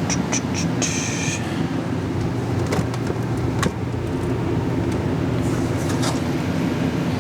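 A steady low mechanical hum, with a few light clicks and brief high squeaks in the first second or two.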